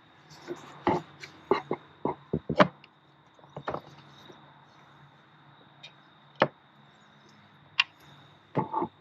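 A scattering of sharp knocks and clicks, a few close together in the first three seconds and single ones later, over a faint steady hum.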